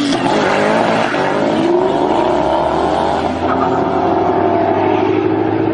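Car engine running loudly, its revs rising and falling throughout.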